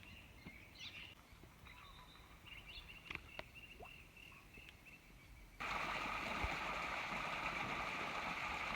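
Faint, sparse bird chirps over quiet outdoor ambience. About five and a half seconds in, an abrupt cut to a louder, steady rush of running water.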